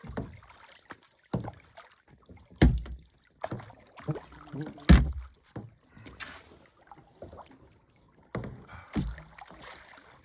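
Kayak paddle strokes in the water: a series of sudden splashes, about one every second or so, uneven in strength.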